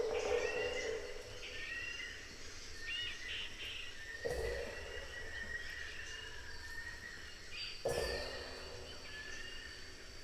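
Recorded Southeast Asian wildlife: birds calling in repeated short chirps and rising whistles over a faint hiss of background noise, with two brief lower-pitched sounds about four and eight seconds in.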